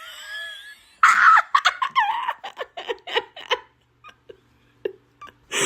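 A person laughing: a loud burst about a second in, then a quick string of short laughs that trail off.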